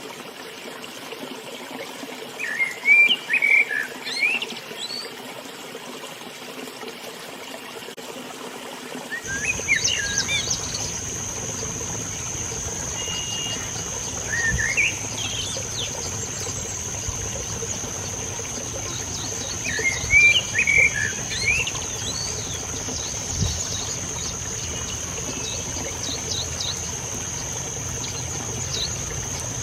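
Small birds twittering in four short bursts of quick chirps over the steady rush of a river. About a third of the way in, a steady high-pitched whine joins and holds.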